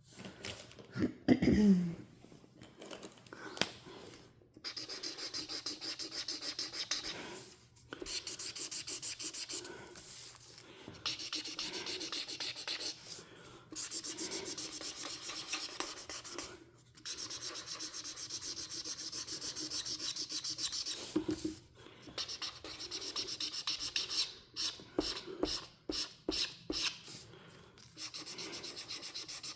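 Marker tip rubbing back and forth on paper in long runs of rapid coloring strokes, broken by short pauses. About a second and a half in there is one brief loud sound, falling in pitch.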